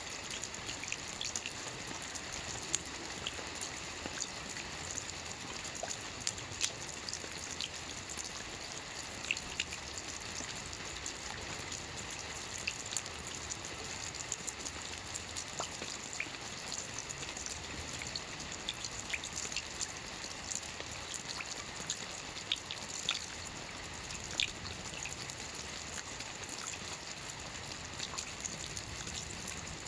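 Soft rain falling steadily on a roof: an even hiss with many scattered, sharper taps of single drops.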